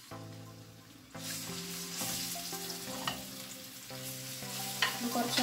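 Ginger-garlic paste sizzling in hot oil in a nonstick wok and stirred with a wooden spatula. The sizzle grows louder about a second in, and the spatula scrapes and knocks against the pan a few times near the end.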